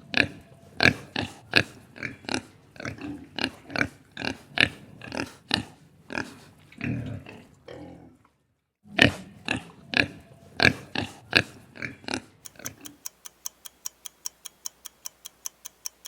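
Pig oinking and grunting in rapid short calls, with a brief pause partway through. Near the end the calls give way to a clock ticking quickly, about four ticks a second, the countdown timer for the guess.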